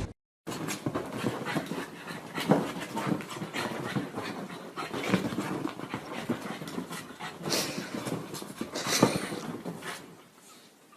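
A dog panting, with a few sharper, louder sounds along the way; it fades out near the end.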